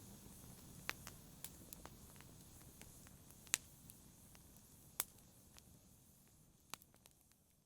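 Campfire burning: wood crackling with scattered sharp pops over a low hiss, three of them loud, the whole fading out near the end.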